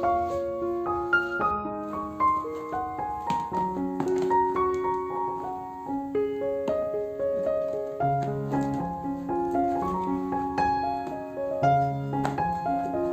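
Background piano music: a gentle melody of held notes over a lower accompaniment, with a few faint clicks or knocks.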